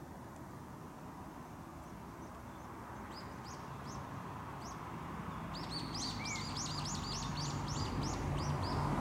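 Low rumble of a distant Shinkansen bullet train, growing steadily louder. A small bird chirps over it, a few short calls at first, then a quick run of repeated calls in the second half.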